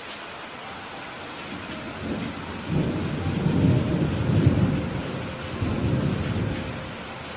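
Steady rain falling, with a roll of thunder that builds about two seconds in, rumbles low in two swells, and dies away near the end.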